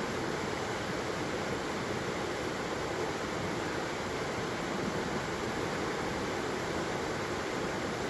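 Waterfall with flowing water: a steady, even rush of falling water with no breaks or changes.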